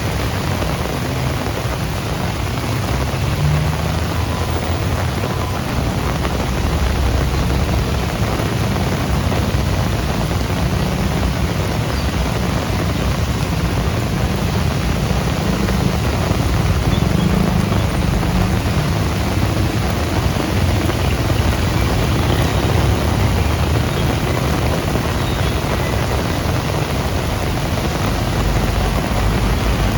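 Heavy rain falling steadily, with a loud, steady low rumble underneath.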